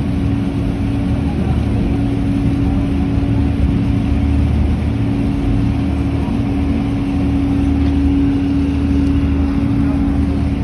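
Sightseeing river boat's engine running steadily: a constant low drone with a steady hum.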